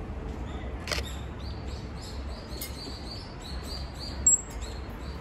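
A small bird chirping, a run of short high notes at about four a second, with one sharper, louder high note around four seconds in. A single click comes about a second in.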